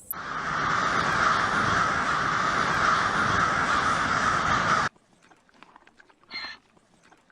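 A loud, harsh animal call held for nearly five seconds and cut off abruptly, followed about six seconds in by one short, quieter call.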